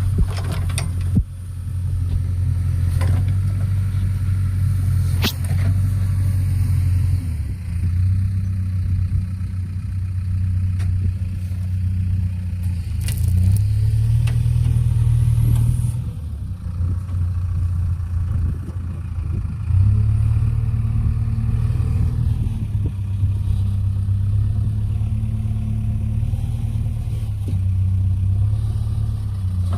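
A car engine running with a steady low rumble that swells and eases a few times. A few sharp clicks come in the first several seconds.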